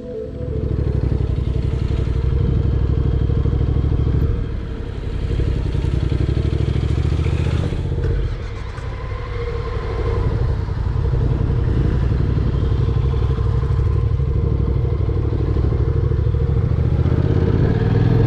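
Honda NC750X's parallel-twin engine running steadily under way. The engine's level dips briefly about four seconds in and again around eight seconds.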